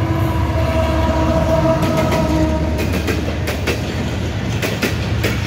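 Passenger train passing at speed behind a GEU-40 diesel-electric locomotive: a steady low rumble, with the locomotive's steady tone fading over the first couple of seconds as it goes by. Then the coaches' wheels click sharply over the rail joints in a quick, uneven run of clicks.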